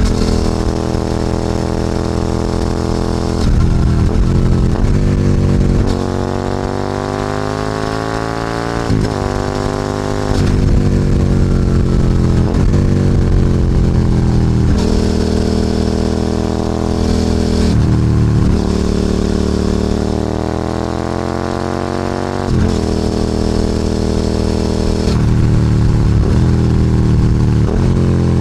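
Suzuki SV650's 645 cc 90-degree V-twin engine running through a Hurric Tec One aftermarket exhaust, under way. Its pitch climbs in long sweeps as it accelerates and drops sharply several times.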